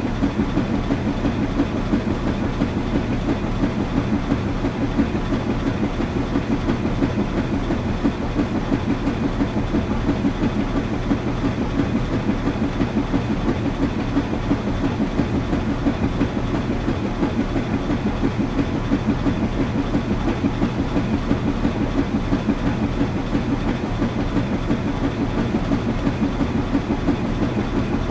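Washing machine running: a steady low rumble with a fast, even flutter and no breaks.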